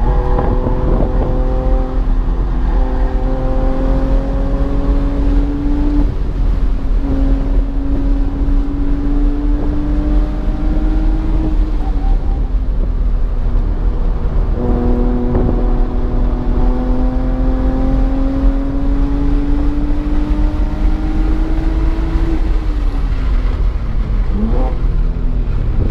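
BMW engine pulling hard under full throttle on track, its pitch climbing slowly through a gear, with a shift about six seconds in. It eases off around twelve seconds, pulls again from about fifteen seconds, then backs off near the end with a quick throttle blip on a downshift. Road and tyre rumble sits underneath.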